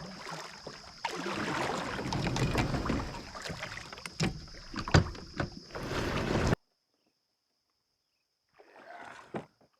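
Kayak being paddled and handled: water sloshing and rustling with several sharp knocks against the hull, cutting off abruptly about two-thirds of the way through. Near the end comes a short rustle and a click.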